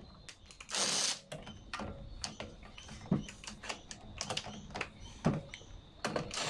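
Irregular light clicks and taps of hand tools and small screws being worked on the air filter base of a lawnmower engine, with a short scraping rustle about a second in.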